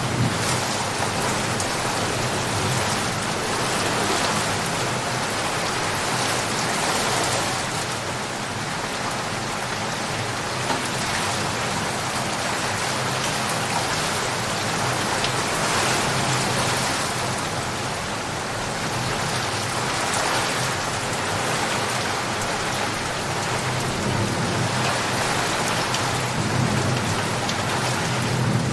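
Steady, heavy rain falling, with low rumbling thunder underneath that swells near the end.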